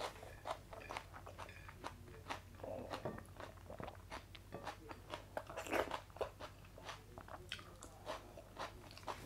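Close-miked eating by hand: wet chewing with many short mouth clicks, as mouthfuls of kadhi and rice are eaten, with a few longer scraping rustles about three and six seconds in from fingers gathering the last food off the plate.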